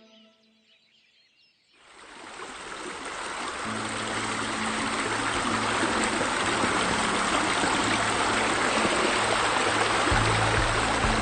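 Rushing water of a waterfall, fading in after about two seconds of near silence and then running steadily, with soft music underneath.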